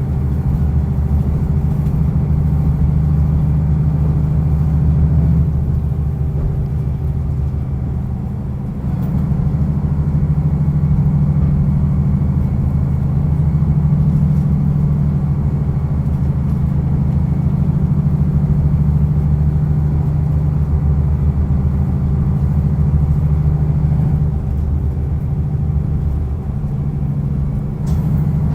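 Onboard running sound of a diesel railcar: a steady low engine drone over rail rumble. It eases off about six seconds in and again near the end, then picks back up. A short sharp click comes just before the end.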